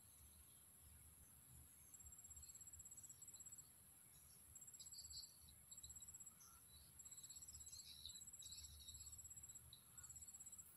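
Faint outdoor evening ambience: an insect chirping in short, rapid high trills of about half a second, repeating roughly once a second, with a few faint bird chirps between them.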